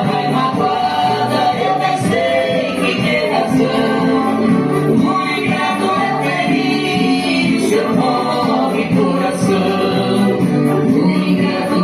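A song with several voices singing together over musical accompaniment.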